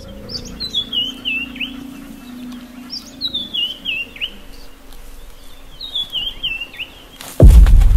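A bird singing the same short phrase of falling, high-pitched notes three times, about every three seconds. Near the end a sudden loud low rumble sets in.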